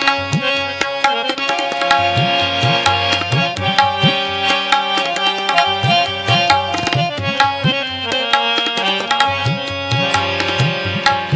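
Tabla playing a steady rhythm in an instrumental interlude of Sikh kirtan, its bass drum strokes bending upward in pitch, under sustained held notes from a melodic instrument.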